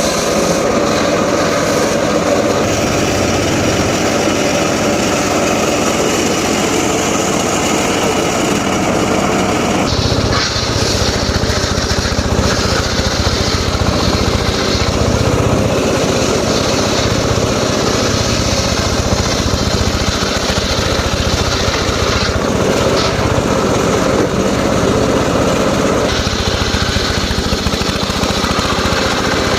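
Small petrol engine driving a saw, running continuously at working speed while cutting wood. Its sound shifts about ten seconds in and again near the end.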